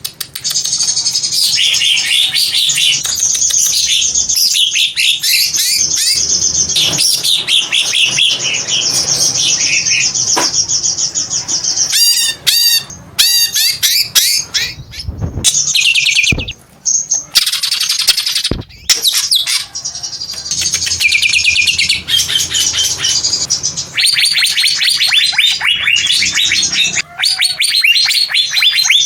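Green leafbird (cucak hijau) singing a long, loud, rapid stream of chirps and trills, with a few short pauses midway.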